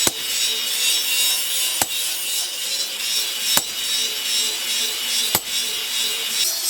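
Steady scraping noise of a tool working material, like sawing or filing, with a faint sharp tick about every two seconds.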